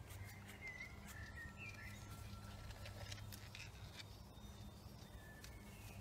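Faint bird chirps and short whistled notes, busiest in the first couple of seconds and again near the end, over a steady low hum, with scattered light clicks.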